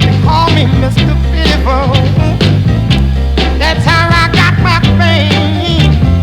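A rhythm and blues record playing on vinyl: a steady beat and bass line under a wavering lead melody.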